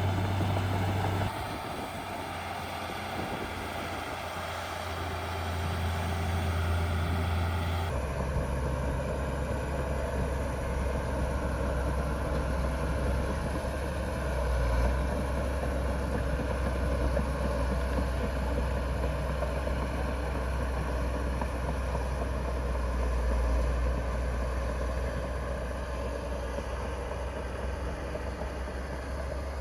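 Heavy diesel engine of earthmoving machinery running steadily, with a deep low hum. The sound shifts abruptly about a second in and again about eight seconds in.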